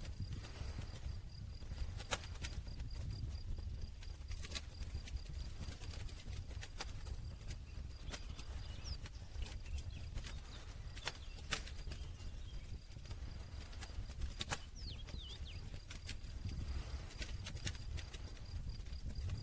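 Wood campfire burning: a steady low rumble with small crackles and a sharp pop every few seconds.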